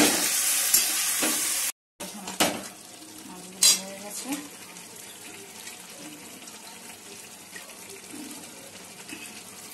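Amudi fish curry sizzling hard in hot oil in an aluminium karai, which breaks off abruptly a couple of seconds in. Then a metal spatula knocks against the pan twice and the curry bubbles quietly.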